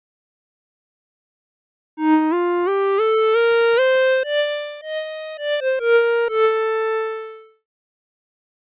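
Surge XT software synthesizer playing a short single-note line after a couple of seconds of silence. The notes step upward one at a time, then come back down, ending on a held note that fades out.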